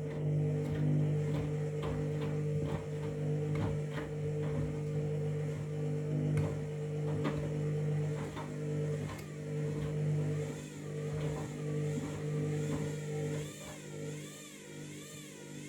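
Washing machine running with a bath mat in the drum: a steady mechanical hum with repeated knocks. The hum stops about two seconds before the end, leaving a softer wavering whine.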